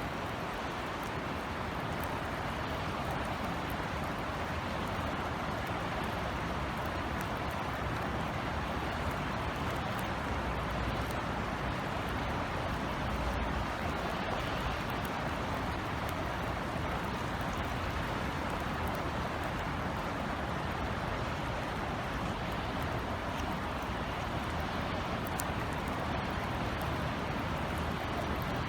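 Steady summer drizzle falling on outdoor surfaces, an even hiss of rain with scattered faint drop ticks.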